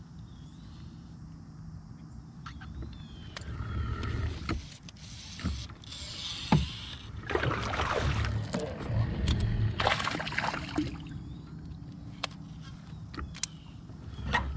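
Water splashing and sloshing around a kayak, with handling clicks and rustles, as a small bass is brought in. There are several louder splashy surges in the middle, and a bird chirps faintly near the start.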